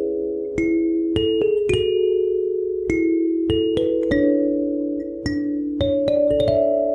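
Soft instrumental background music: gentle keyboard chords with bell-like notes picked out on top, changing every half second to a second.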